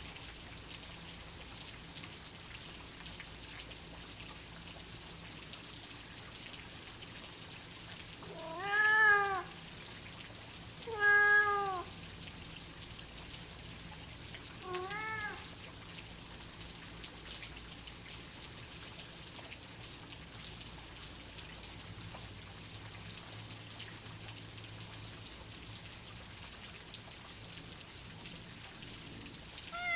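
Steady rain hiss with a domestic cat meowing three times about a third of the way in, each meow rising then falling in pitch, the third one fainter.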